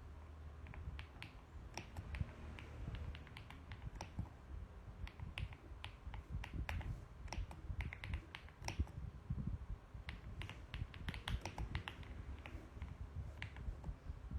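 Typing on a mechanical keyboard: irregular runs of sharp keystroke clicks in quick bursts with short pauses, over a low steady hum.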